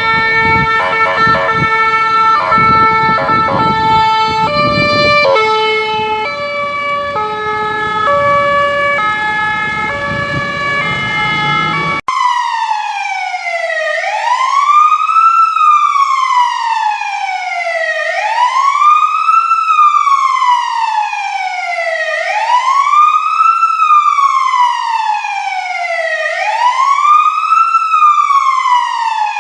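Emergency vehicle sirens. First a two-tone siren stepping between steady notes over a low traffic rumble; then, after an abrupt switch about twelve seconds in, a wailing siren that rises quickly and falls slowly, once roughly every four seconds.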